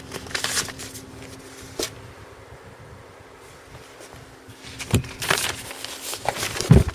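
Pickup truck cab doors and fittings being handled: rustling and clicks, then a heavy thud just before the end as a door shuts.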